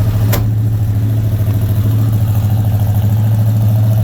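1976 Oldsmobile Cutlass Salon's 455 Rocket V8, fed through a full dual exhaust, idling steadily as it warms up after a cold start. A single sharp click sounds just after the start.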